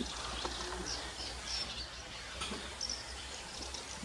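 Small songbirds singing outdoors: short, high chirping phrases repeated throughout, over a steady background hiss and a low rumble.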